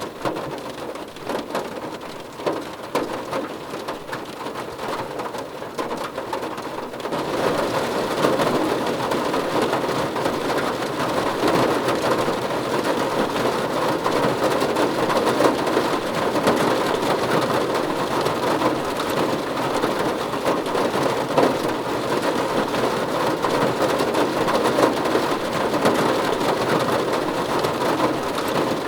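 Rain drumming on a car roof, a dense patter of drops that grows heavier and louder about seven seconds in and then holds steady.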